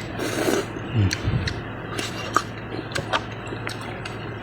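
A person eating glass noodles close to the microphone: a short noisy burst of mouth sound near the start, a brief low hum about a second in, then chewing with scattered wet, smacking clicks.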